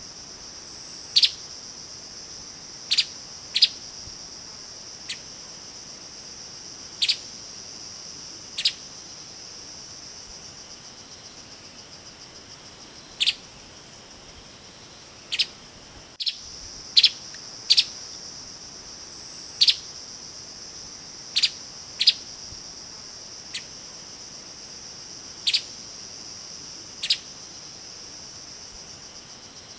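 Streaked spiderhunter giving short, sharp single call notes at irregular intervals, roughly one every one to two seconds, over a steady high-pitched drone of insects.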